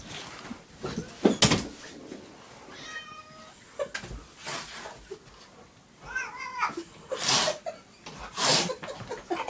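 A cat meowing twice, one fairly steady call and then a shorter wavering one, among several short noisy bursts.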